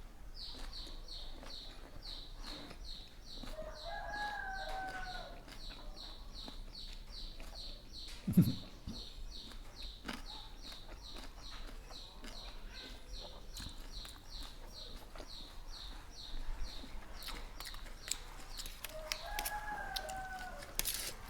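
A rooster crowing twice, about four seconds in and again near the end, over a steady high chirping repeated about three times a second that stops a few seconds before the end. A single dull thump about eight seconds in is the loudest sound.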